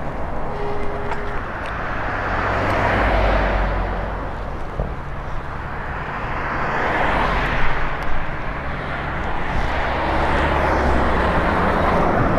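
Traffic passing a moving electric bike: car noise swells and fades about three times over a steady low rumble.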